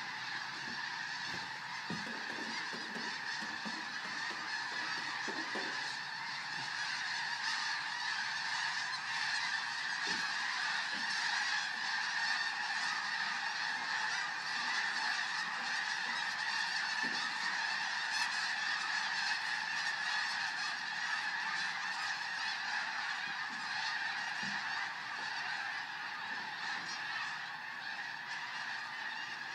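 A large flock of birds calling all at once, many overlapping calls merging into one dense, unbroken din that holds steady throughout.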